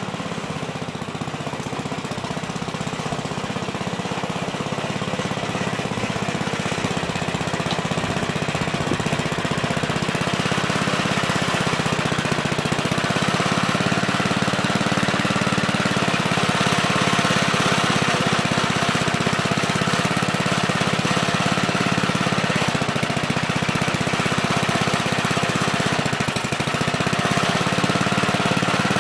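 Gravely Terramite compact backhoe's engine running steadily with a rapid chattering beat. It grows louder over the first several seconds and then holds.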